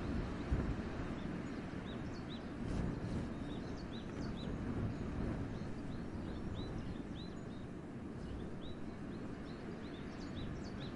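Wind blowing in a forest, a low gusty rumble that swells and eases, while a small bird gives short high chirps over and over.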